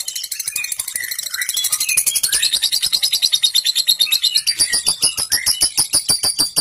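Lovebird's long 'ngekek' chatter: a fast, unbroken run of sharp high clicks, about nine a second, with softer chirping notes underneath in the first half.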